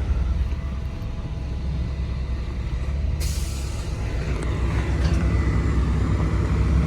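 Mercedes-Benz car driving with a steady low engine and road rumble. About three seconds in, a loud hiss of tyres on dirt sets in and slowly fades, as the car leaves the closed paved road.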